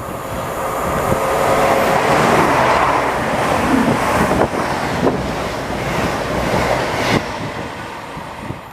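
A train passing through the station: a rushing rumble that builds, is loudest in the middle, then fades, with a few sharp clicks from the wheels along the way.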